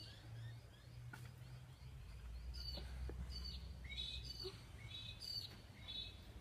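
Birds chirping outdoors: a run of short, sharp calls, most of them in the second half, over a faint low background rumble.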